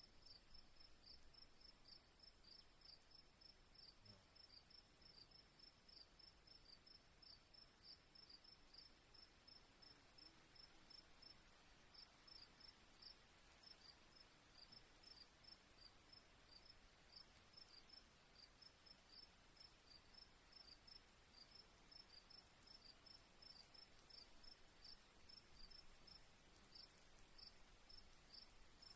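Faint crickets: a steady high trill under a run of short chirps repeating several times a second, which pauses briefly about eleven seconds in.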